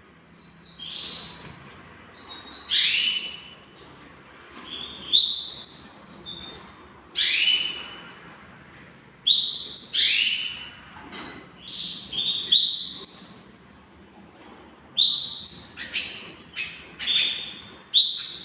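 Canaries calling: a dozen or so loud, high, separate call notes, each under a second long and about one to two seconds apart, with fainter chirps in between.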